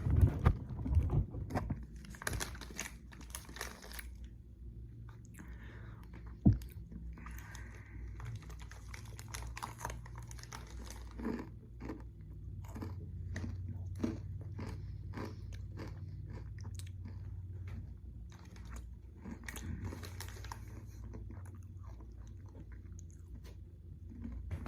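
A person biting and chewing a crunchy oats-and-honey granola bar: repeated sharp crunches, loudest in the first few seconds, over a low steady hum.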